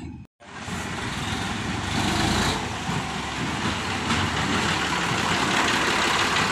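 Sonalika tractor's diesel engine running steadily, coming in after a brief silent dropout just after the start.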